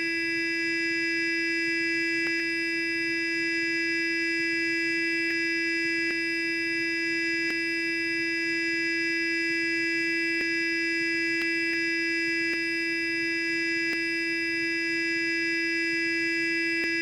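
Sonic electric toothbrush buzzing steadily at one constant pitch, with faint ticks now and then.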